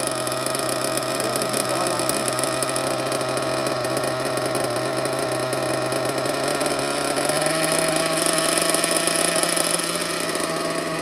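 Picco P3TT .21 (3.5 cc) nitro engine idling steadily during its break-in, with its pitch stepping up slightly about seven seconds in.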